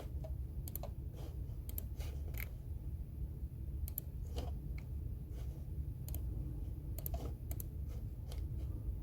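Computer keyboard keys being typed in short, irregular clusters of clicks with pauses between, over a steady low room hum.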